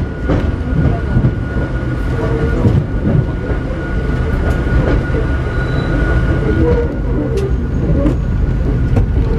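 Hakone Tozan Railway Moha 2 electric railcar running through a tunnel, heard from inside the car: a steady, heavy rumble of wheels and running gear with a thin steady high tone over it. A few sharp clicks come in the last couple of seconds.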